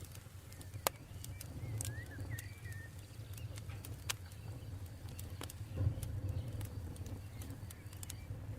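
Campfire burning: wood crackling with scattered sharp pops over a low, steady rumble of the flames. A bird chirps briefly about two seconds in.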